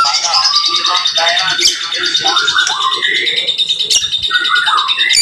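White-rumped shama (murai batu) singing a fast string of varied whistled phrases over a steady high thin tone, with a few sharp clicks.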